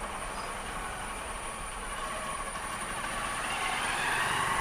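Jet airliner engines: a steady rushing noise that swells louder near the end.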